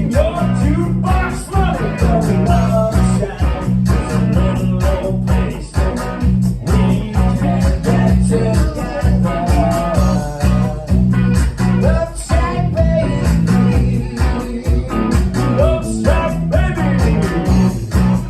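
Rock song mashup playing: electric guitar over a steady bass and drum beat, with a melodic line weaving above it.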